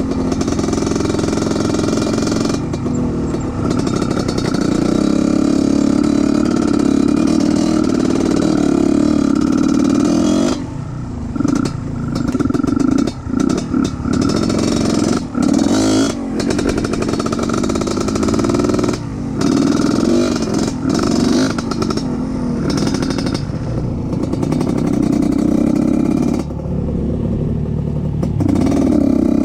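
Off-road trail motorcycle engine running under load, the throttle repeatedly closed and opened again through the middle stretch, with some clatter.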